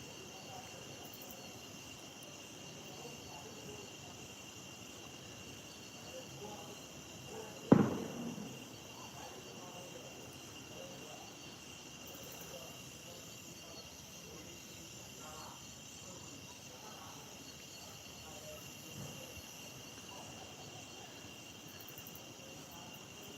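Steady high-pitched insect chorus, crickets or cicadas, with a single sharp thump about eight seconds in.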